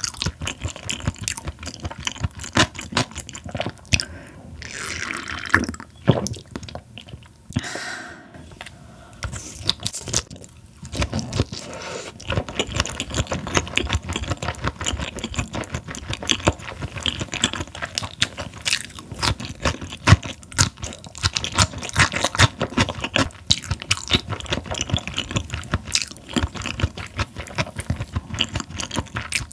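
Close-miked mouth sounds of eating raw Chinese herring sashimi and herring salad: rapid, crunchy chewing with wet clicks, and two short, softer wet sounds in the first third.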